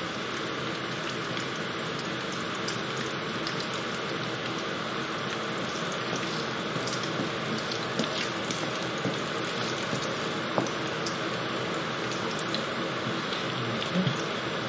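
Steady sizzle of frying: a cinnamon stick infusing in hot oil in a wok, with diced chicken frying in a second pan. A few light taps of a wooden spatula in the wok.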